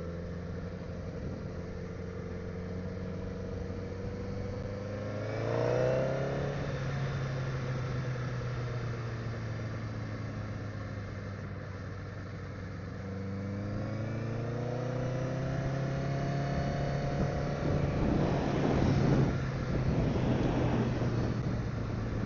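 Honda CBR1000RR sportbike's inline-four engine running under way, its pitch climbing as it accelerates about five seconds in and again from about thirteen seconds, with a louder rush of noise near the end.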